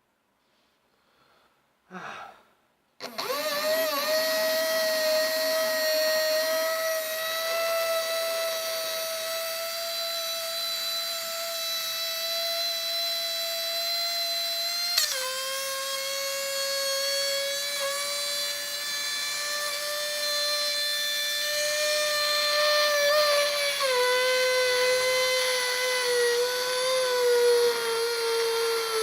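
Small brushed DC toy motor overdriven on a 12 V supply, whining at a high steady pitch. It starts about three seconds in after a short blip. Its pitch drops suddenly about halfway through and again near the end, then sags further as the motor slows while it is being burnt out.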